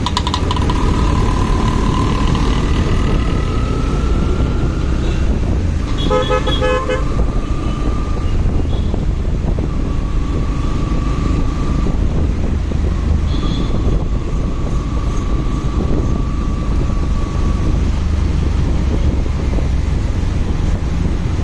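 Steady wind rumble and road noise of a motorcycle ride, with a whine rising in pitch over the first few seconds. About six seconds in, a vehicle horn sounds a quick string of short toots.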